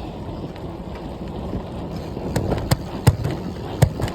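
Rumbling wind and road noise from a bicycle in motion, picked up by a handheld phone, with several sharp knocks in the second half, about one every half second.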